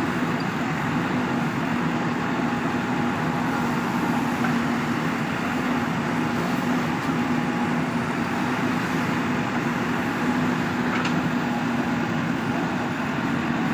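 JCB 3DX backhoe loader's diesel engine running steadily with an even, unchanging hum.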